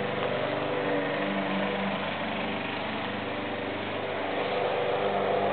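An engine running steadily, its pitch holding level and its level dipping a little in the middle.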